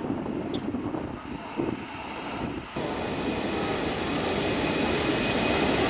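Airbus A380-800's Rolls-Royce Trent 900 jet engines running, a steady rush that grows gradually louder and turns abruptly brighter about halfway through.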